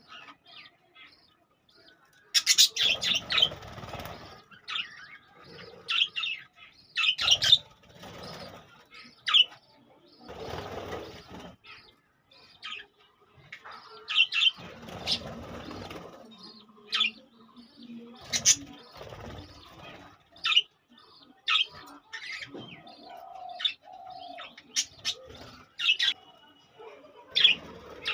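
Budgerigars chirping in short, sharp calls, with several bursts of wing flapping a second or two long.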